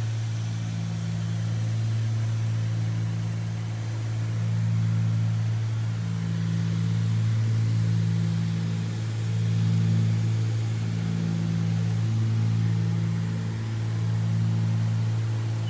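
Cessna 310's twin piston engines and propellers running steadily in cruise: a steady low drone with a slow, regular throb about once a second.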